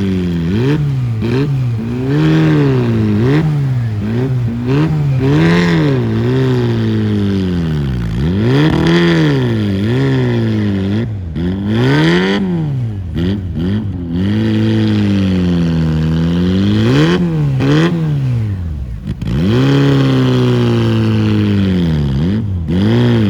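Off-road 4x4 engine revving hard and repeatedly, the pitch climbing and falling every second or two as the driver works the throttle to push through a deep, difficult section of the course.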